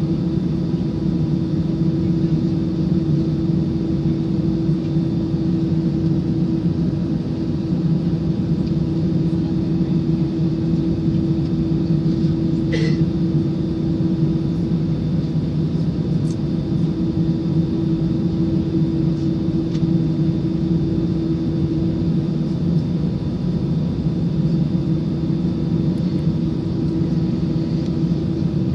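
Airbus A319 cabin noise in flight: a steady drone of jet engines and airflow with a low hum. About thirteen seconds in there is one short, sharp sound.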